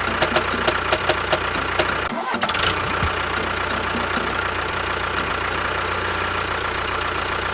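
Engine running with a rapid knocking, about four to five knocks a second, for the first two seconds. After a brief break about two seconds in, it settles into a steady drone.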